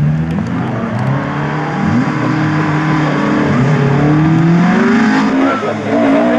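Rally car engine revving hard, its pitch rising and falling several times as it accelerates and lifts through the stage.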